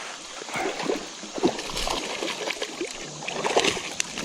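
Creek water splashing and sloshing irregularly, with scattered sharp clicks and knocks.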